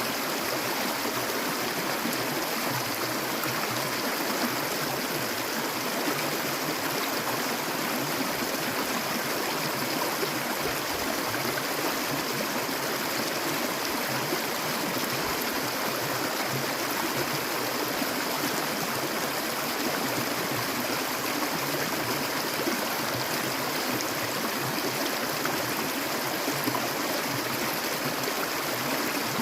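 Clear water flowing steadily, an even rushing and gurgling that does not change.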